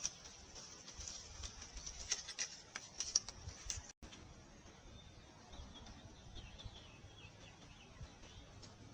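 Faint, quick, irregular clicks and scratches from small animals feeding at close range, with birds and squirrels at seed. After a short break in the recording about four seconds in, only faint, thin bird chirps over a quiet outdoor hiss.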